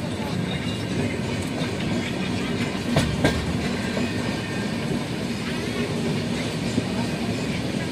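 Steady running noise of a moving passenger train heard from inside a coach, with two sharp knocks in quick succession about three seconds in.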